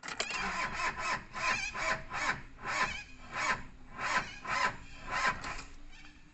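Toyota engine being cranked over slowly by its starter in rasping strokes about two a second, slowing and fading near the end: a flat battery that cannot turn the engine fast enough to start.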